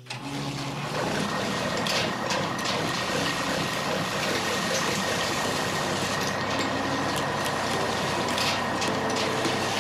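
A truck-like engine sound running steadily, with scattered clicks over it.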